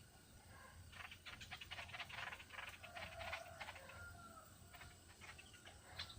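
Small songbird chattering: a quick run of sharp chips about a second in, a short whistled note, then a few more chips near the end.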